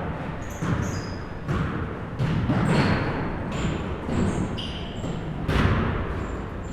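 Basketballs bouncing on a gym floor, irregular thuds with short high sneaker squeaks between them.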